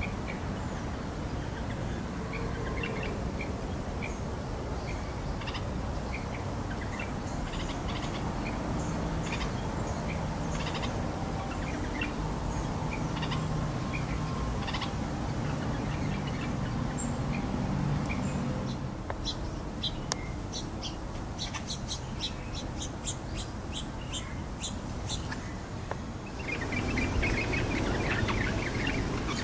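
Small birds chirping in scattered short high notes, with a fast run of chirps in the second half and louder, harsher calls near the end, over a steady low background rumble.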